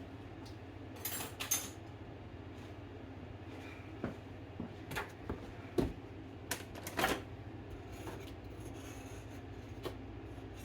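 Irregular clicks and clinks of kitchen utensils being handled while measuring spoons are fetched out, with a louder clatter about a second in and again near the middle.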